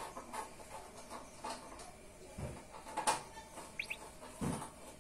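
Scattered light clicks and knocks of tools and motorcycle wheel parts being handled, with two dull thumps and two short high chirps near the end.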